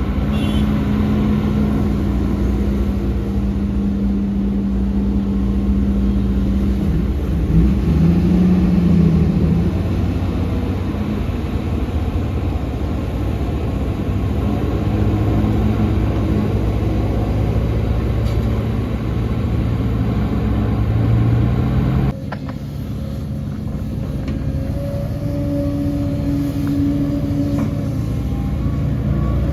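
Heavy diesel engines of earthmoving machinery (excavator and dump trucks) running under varying load, the engine note rising and falling. The sound drops and changes abruptly about 22 seconds in.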